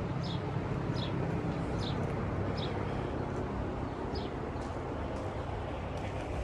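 Steady low mechanical hum, with a small bird chirping over it: about five short, falling chirps a second or so apart.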